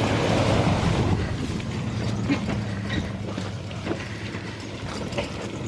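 AMC 327 V8 in a 1963 Jeep Gladiator idling steadily, with scattered light clicks and ticks over the engine note.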